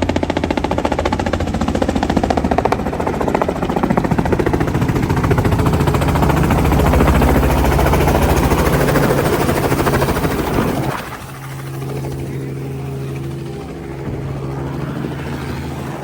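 Helicopter running loud with a fast, even rotor beat. About two-thirds of the way through, the level drops suddenly and the sound settles into a quieter, steadier hum.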